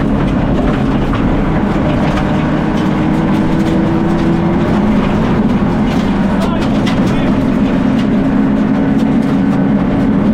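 Fiat Egea rally car's turbocharged 1.4-litre four-cylinder engine running hard under load, heard from inside the cabin. Its note climbs slowly, then drops a little about halfway through and holds steady.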